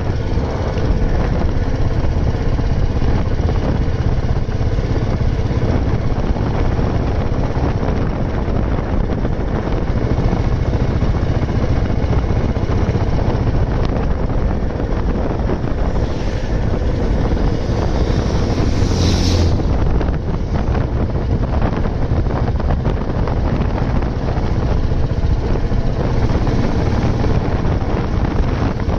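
Old Royal Enfield Bullet 350's single-cylinder four-stroke engine running steadily while riding, mixed with wind buffeting the microphone. About two-thirds of the way in there is a brief high-pitched sound over the ride noise.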